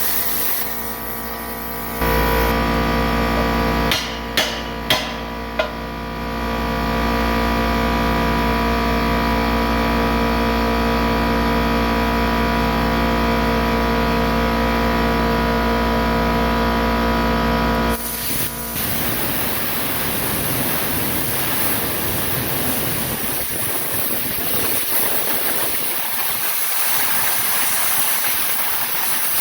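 Plasma cutter at work: a steady buzzing hum with three sharp clicks a few seconds in, then a steady hiss from about two-thirds of the way through.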